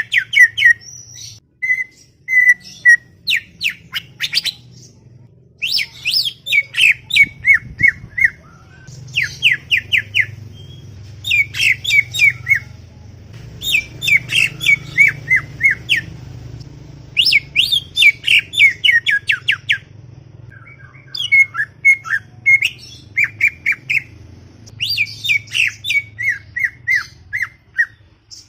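Greater green leafbird (cucak ijo) singing in chattering phrases of quick, sharp notes that slide downward. Each phrase lasts one to three seconds, with short pauses between, over a faint low hum.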